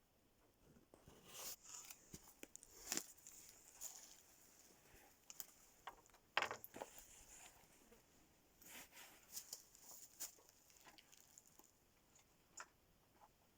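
Faint, scattered rustling and small clicks, with one sharper tap about six seconds in.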